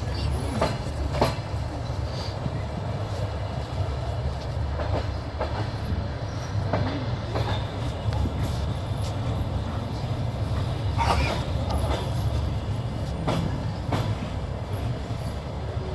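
Wheels of a moving train heard from inside the carriage: a steady low rumble with sharp knocks at irregular intervals as the wheels pass over rail joints.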